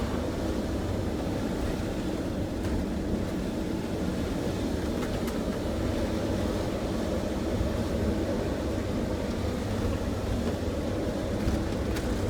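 Steady low drone of a motorhome's engine and tyres on the road, heard from inside the cab while driving.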